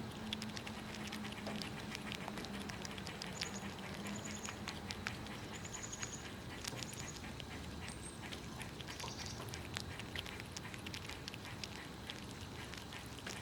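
Squirrels cracking and chewing nuts: irregular crisp crunching clicks, with a few short high chirps in the middle.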